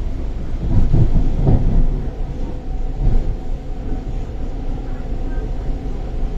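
Interior of an MTR East Rail Line R-Train electric multiple unit on the move: a steady low rumble of wheels on track, with a louder stretch of rattling about a second in.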